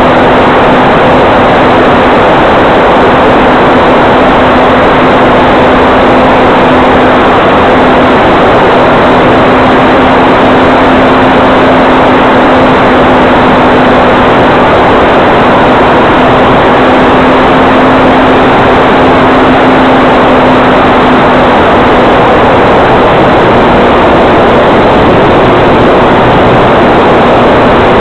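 Electric RC airplane's motor and propeller running at steady throttle: a steady hum under a loud rushing noise, the hum fading somewhat near the end.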